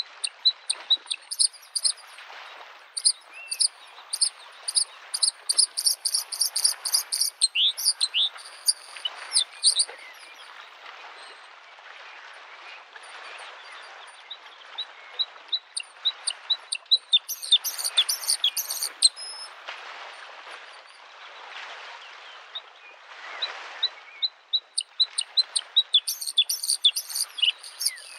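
A bluethroat singing in stretches of rapid, high chirps and twittering phrases, falling silent for a few seconds in the middle and again shortly after. Under it, lake waves lap at the shore, the soft wash swelling and fading every few seconds.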